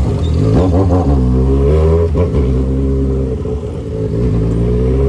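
Yamaha XJ6's inline-four engine through a 3-inch exhaust pipe, riding and accelerating through a gear change. It eases off briefly past the middle, then pulls again.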